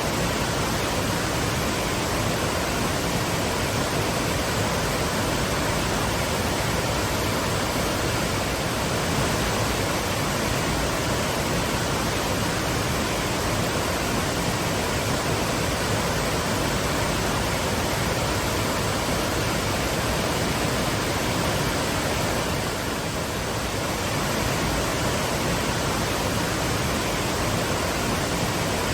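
Twin waterfalls: water crashing down in a steady, full roar of white noise.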